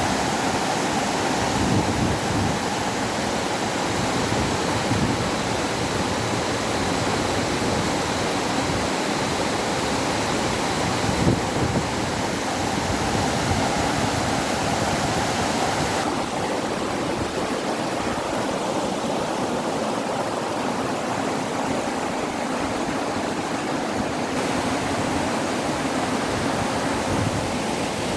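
Waterfall rushing steadily, an even wash of falling water, with one brief knock near the middle.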